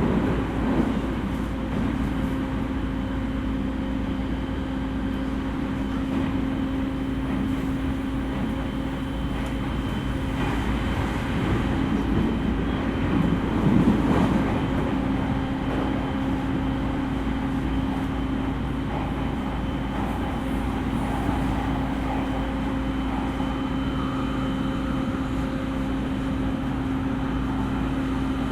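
Running sound inside a JR East E231 series electric train cruising at steady speed: continuous rumble of wheels on rail with a steady hum. It grows briefly louder about halfway through.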